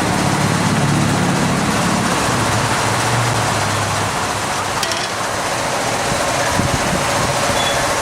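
Car wash equipment running, a steady rush of spray and machinery, with a low hum under it that fades out about four seconds in.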